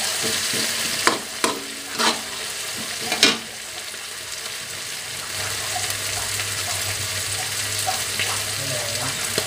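Diced vegetables sizzling in hot oil in a steel wok, with a metal spatula knocking and scraping against the pan four times in the first few seconds, then steady sizzling.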